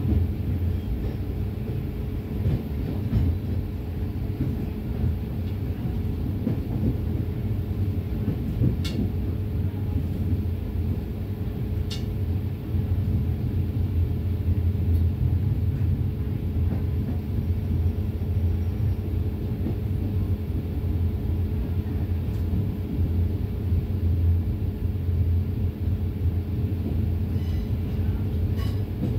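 Passenger train running at low speed, heard from inside a carriage: a steady low rumble of wheels on track with a constant hum over it and a few sharp clicks from the wheels.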